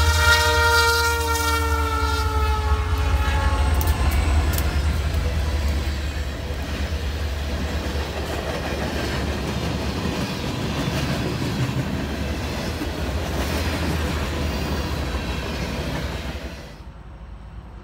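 A train horn sounds a chord of several tones that slides slightly down in pitch as the train passes, fading out within the first few seconds. The train then rolls by with a steady rumble and wheel noise, which stops abruptly near the end.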